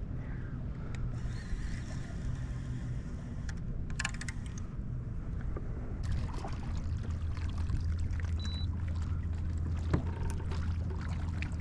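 Water sloshing and lapping against a kayak's hull, with a quick cluster of clicks about four seconds in and scattered small knocks and ticks later on.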